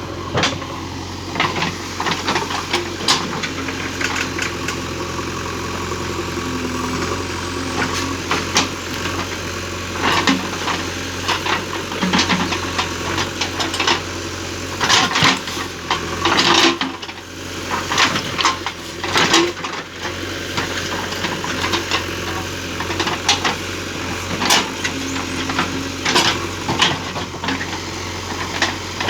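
Engine of a pit-digging machine running steadily while digging planting pits, with frequent irregular clanks and knocks.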